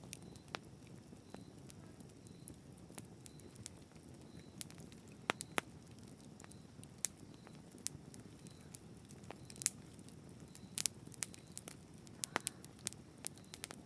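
Wood fire burning: irregular sharp pops and snaps over a soft low rumble of flames, with a quick cluster of pops near the end.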